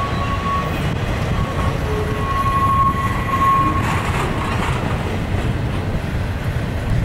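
Union Pacific double-stack container train rolling past, its well cars' wheels making a steady, loud rumble and clatter on the rails. A thin, high wheel squeal comes and goes twice over the rumble.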